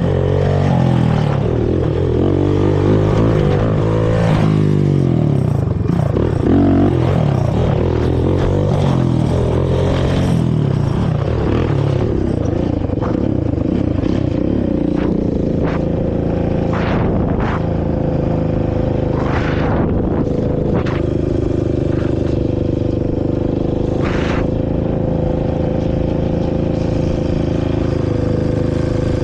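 Honda TRX450R quad's carbureted single-cylinder four-stroke engine through its stock exhaust, revving up and down with the throttle for about the first twelve seconds, then running at a steady pitch. A few short knocks sound in the middle stretch.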